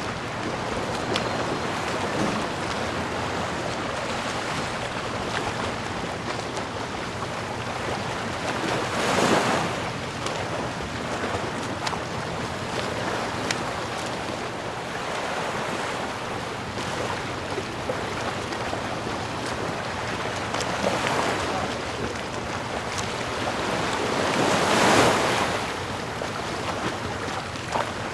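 Sea waves washing on the shore over a steady wash of surf, with a larger wave breaking about ten seconds in and another near the end.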